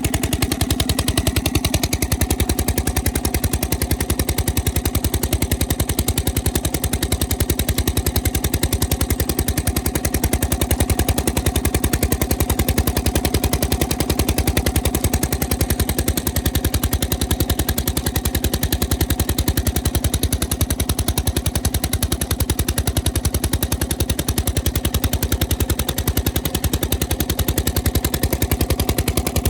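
1930s Krimo 35 hp oil engine running steadily, its firing beats coming fast and even. It is running on its newly adjusted rpm regulator.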